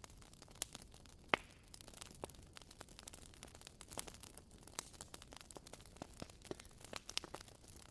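Wood fire crackling faintly: irregular small snaps and pops, with one louder pop about a second and a half in.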